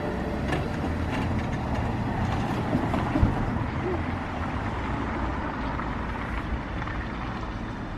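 A passing train: a steady rumble with a few faint knocks, slowly easing off.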